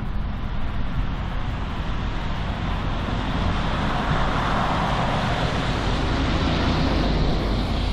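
BNSF freight train rolling past: a steady rumble with wheel-on-rail noise that swells about halfway through.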